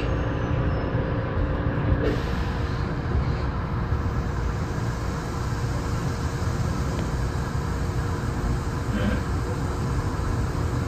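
Kintetsu 6820 series electric commuter train running between stations: a steady rumble of wheels on the rails and running gear, with a faint whine that falls and fades out about two seconds in.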